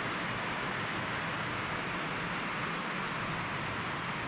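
Heavy rain on the roof: a steady, very loud hiss with no let-up.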